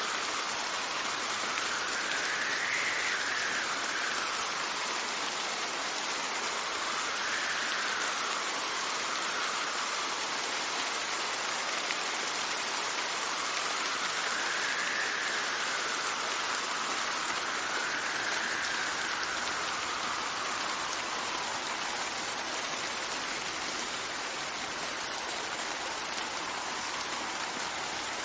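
Steady rain with gusting wind, whose whistle rises and falls in pitch about five times.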